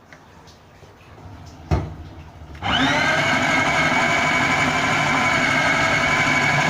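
A click, then an electric mixer-grinder (mixie) switches on about two and a half seconds in, its motor whining up to speed and running steadily as it grinds raw boneless chicken with onion, green chillies and spices into a kofta paste.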